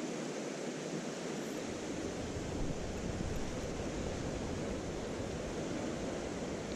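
Mountain stream water rushing steadily over rocks. A low rumble joins about a second and a half in.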